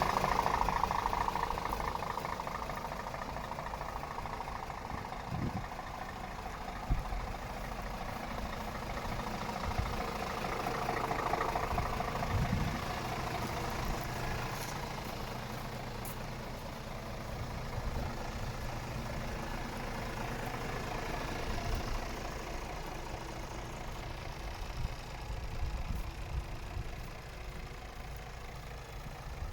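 Scania R500 truck's diesel engine idling steadily, with a few short knocks over the idle.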